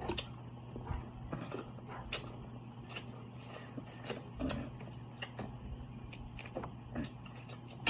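Close-up eating sounds from a seafood boil: irregular wet smacks and clicks of chewing and mouth noises, with one sharper click about two seconds in, over a low steady hum.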